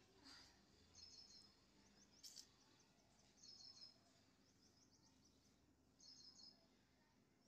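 Faint bird chirping: bursts of quick, high chirps repeating about every two and a half seconds, over quiet background noise, with a couple of soft clicks.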